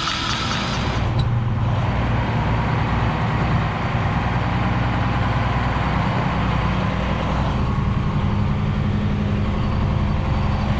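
Big Red, a diesel semi tractor, with its engine running steadily in a low, even hum.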